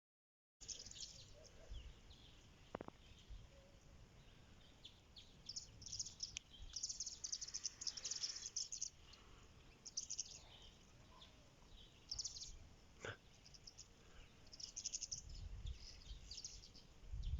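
Small birds chirping in repeated short high trills, with a low rumble rising near the end.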